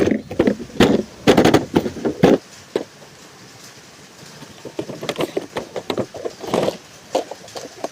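Packaging being handled and opened: irregular rustling, crinkling and clicks, loud for the first two seconds or so, then a quieter run of small crackles and taps after a pause.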